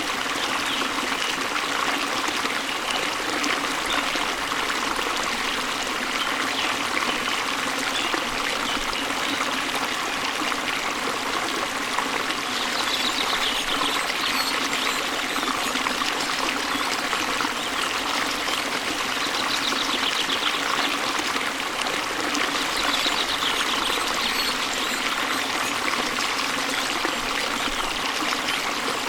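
Waterfall and stream water running steadily: a constant splashing rush that neither builds nor fades.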